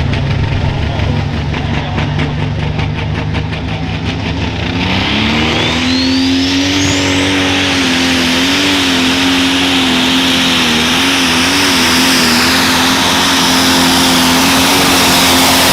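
Turbocharged pro stock pulling tractor's engine running low with fast, even firing pulses, then revving up about five seconds in, with a turbo whistle rising in pitch. It then holds at high revs under load, its pitch dipping and recovering a few times.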